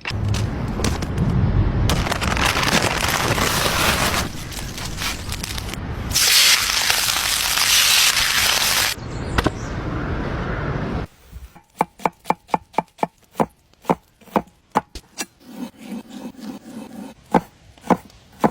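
Outdoor cooking sounds in short edited segments: about eleven seconds of loud, dense crackling and hissing noise that changes abruptly several times, then a run of sharp knocks, roughly two a second.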